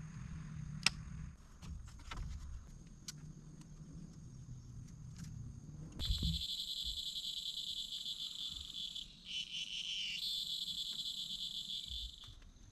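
Rainforest insect chirring loudly as a fast, finely pulsing high buzz that starts suddenly about halfway through, dips lower in pitch for about a second, then cuts off just before the end. Before it, low rumbling with scattered clicks and knocks.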